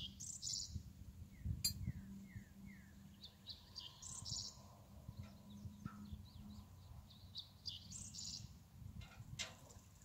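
Wild birds chirping and singing, with a quick series of short descending notes near the start. A couple of faint clicks can also be heard.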